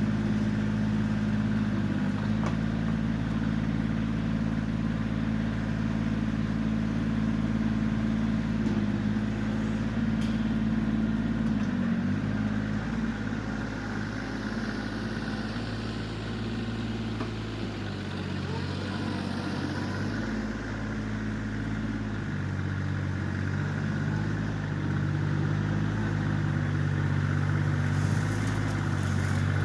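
Diesel engine of a Kioti CK20S compact tractor running steadily while its backhoe is worked, the note shifting a few times as the load changes.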